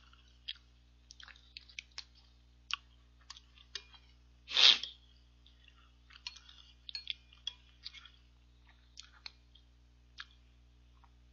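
Close-up mouth sounds of chewing ice cream mixed with Jolly Pong puffed-wheat cereal: a scatter of small, sharp crunches and clicks, with one louder burst about four and a half seconds in.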